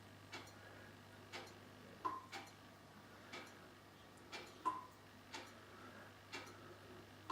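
Faint clock ticking about once a second, with three louder, briefly ringing clicks among the ticks.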